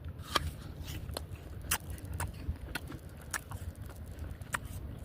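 Chewing close to the microphone: irregular sharp crunchy clicks, about a dozen, over a low steady rumble.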